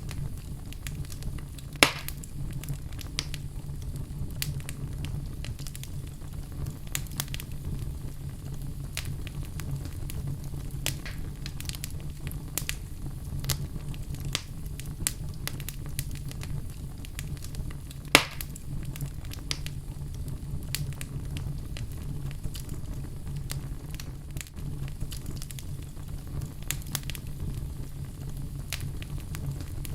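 Wood fire burning in a fireplace: a steady low rumble of flames with scattered crackles and pops, two sharper pops about two seconds in and about eighteen seconds in.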